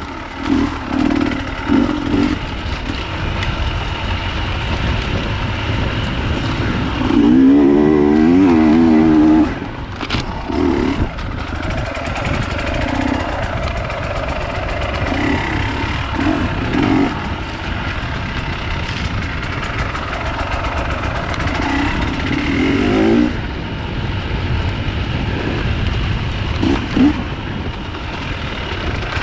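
Off-road enduro motorcycle engine revving up and down as it is ridden, with the loudest, fastest-changing revs between about seven and nine seconds in.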